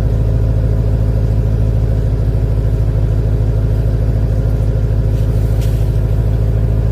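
Mercedes-Benz ML430's M113 4.3-litre V8 idling steadily while still cold, around 1 °C.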